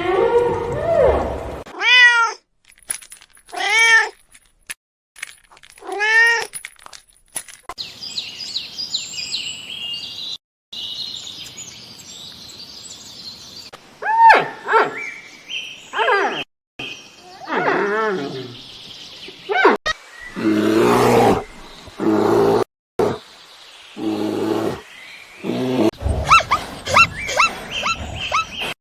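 Cat meowing: three drawn-out meows about two seconds apart. These are followed by high chirping and further animal calls in short clips cut abruptly together.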